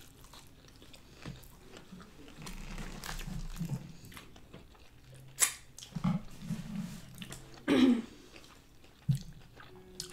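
Close-miked chewing and wet mouth noises of people eating sushi and a poke bowl, with small clicks and smacks. There is a louder, short hummed mouth sound about eight seconds in.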